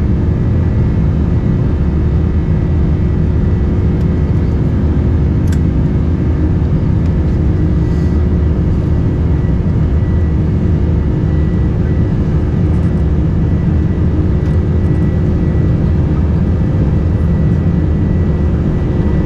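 Steady cabin noise of a Boeing 747-400 in flight: a constant deep rush of airflow and engine noise with a faint steady hum, unchanging throughout.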